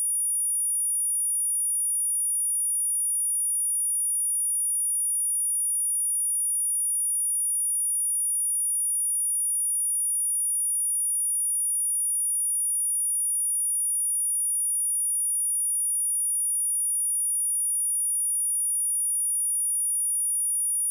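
A steady, high-pitched pure sine tone at 9685 Hz, held unchanged throughout: a speaker test tone of the kind played to shake water and dust out of a speaker.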